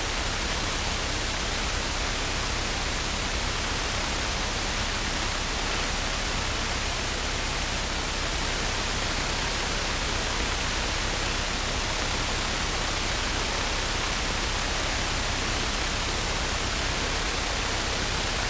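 Steady, even hiss of static on the cockpit headset audio feed, unchanging throughout, with no radio calls.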